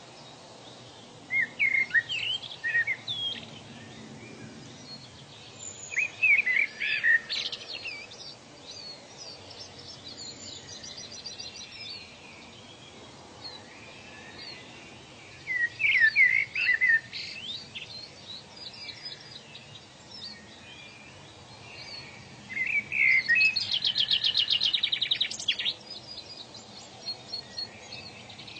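Several birds singing and calling in four bursts of quick chirps and whistles over a steady faint hiss. Near the end one bird gives a fast rattling trill of about two seconds.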